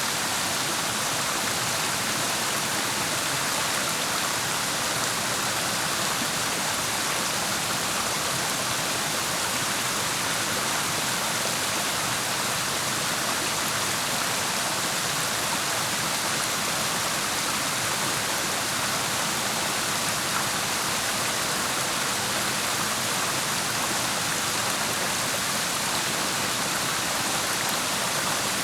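Clear mountain stream rushing steadily over rocks, an even, unbroken rush of water.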